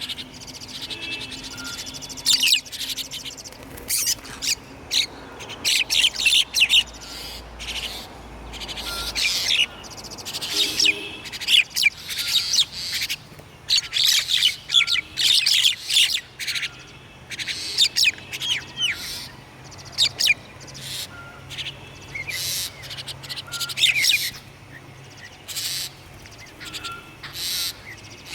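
Small songbirds chirping and calling, many sharp high chirps in quick clusters, one after another, with short pauses between.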